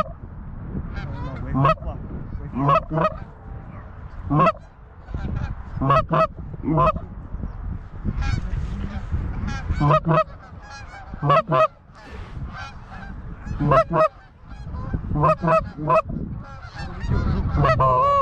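Geese honking and clucking: many short, sharp calls repeated irregularly throughout, over a steady low rumble.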